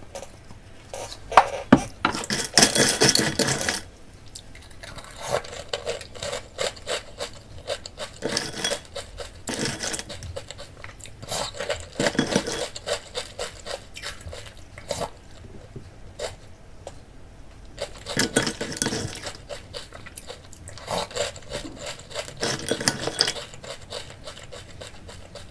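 A spoon clinking and scraping against a cereal bowl, mixed with the crunch of cereal being chewed, in irregular clusters of short sharp clicks.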